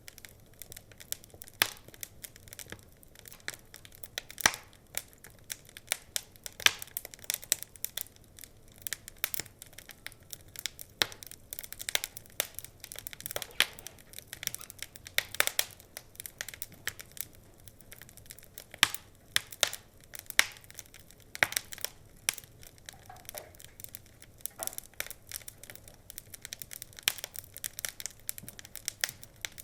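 Wood fire crackling: irregular sharp pops and snaps, several a second, some much louder than others.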